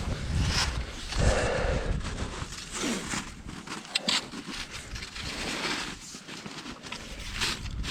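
Footsteps crunching and scraping in loose snow, with irregular low rumbles.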